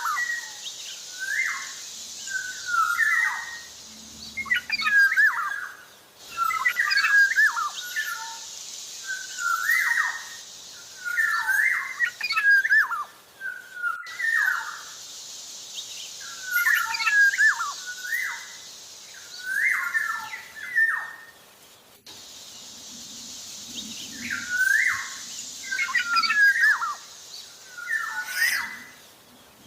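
Black-naped oriole (kepodang) singing persistently: short, fluty whistled phrases repeated every second or two. A steady high hiss runs behind the song and breaks off abruptly about every eight seconds.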